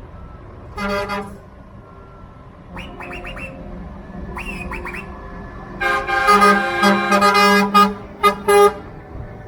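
Truck air horns sounding as trucks drive off: a short blast about a second in, a few quick rising toots around three and four and a half seconds, then a run of loud long and short blasts from about six seconds to near the end, over the steady running of truck engines.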